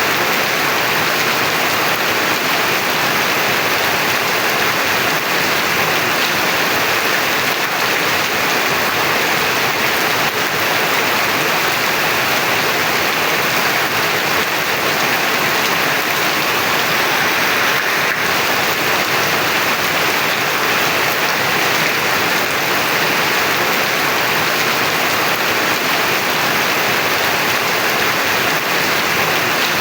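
Heavy rain pouring down steadily: a dense, even hiss of rain on surfaces that does not change.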